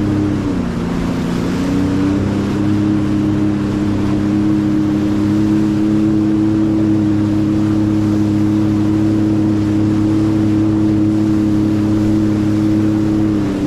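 Jet ski engine running at a steady cruising speed over a rush of wind and water. Its note dips about half a second in, picks back up about two seconds in, and falls again near the end.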